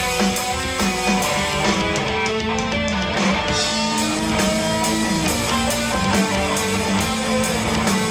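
Rock band playing an instrumental passage: electric guitars over bass guitar and a drum kit keeping a steady beat.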